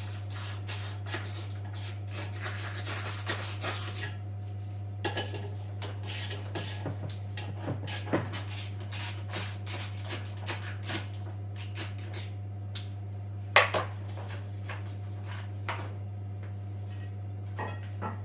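Metal tools and parts clinking and scraping during hands-on work on a washing machine, busiest in the first few seconds and then more scattered, with one louder knock about three-quarters of the way through. A steady low hum runs underneath.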